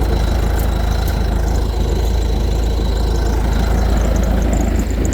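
Skid steer engine running steadily at idle, shortly after a cold start following a few months unused.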